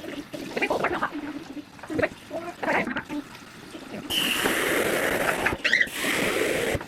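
Light clattering of dishes and handling, then a kitchen tap turned on about four seconds in: water running steadily, briefly interrupted, then cut off just before the end, as strawberries are rinsed.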